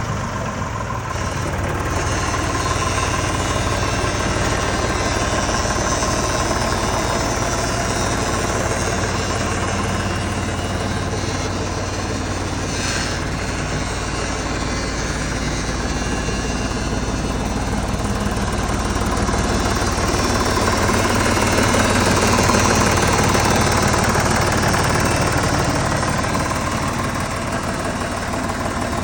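1968 Deutz 4006 tractor's air-cooled three-cylinder diesel engine idling steadily.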